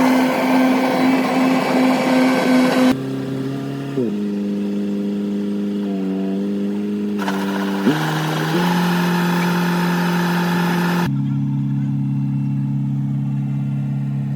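A harvesting machine's engine running steadily. Its pitch jumps several times where the sound cuts from one stretch of running to another, with a brief rise in pitch about eight seconds in.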